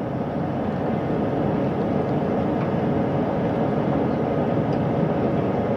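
Steady mechanical drone of a Navy helicopter running on a ship's flight deck, an even rushing noise with a faint steady hum.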